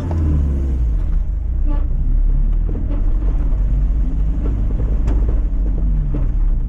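Mazda MX-5's four-cylinder engine running under load on an off-road trial section, a low rumble with the revs rising and falling, plus a few brief knocks.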